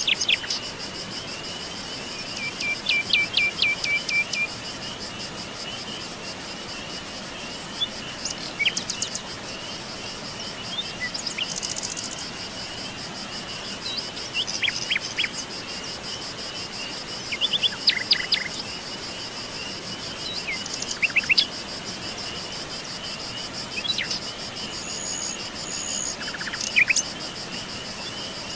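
Songbirds calling in short chirps and quick trills every few seconds over a steady, rapidly pulsing chorus of insects such as crickets. The bird calls are the loudest sounds, coming in brief bursts about two, eight, fifteen, eighteen and twenty-one seconds in.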